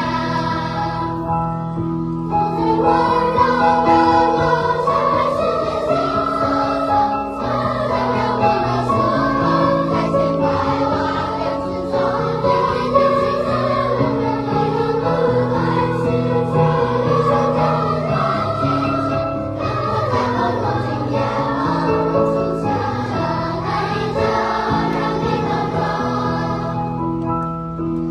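Children's choir singing, several voice lines holding long notes together.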